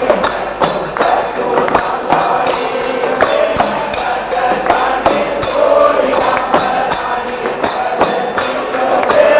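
Devotional bhajan music from a jagran: jingling hand percussion keeps a steady beat under a sustained melody line, with no clear singing.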